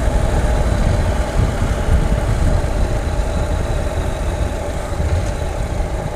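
Honda NC700X motorcycle's parallel-twin engine running steadily amid road traffic, a continuous low rumble with no sudden events.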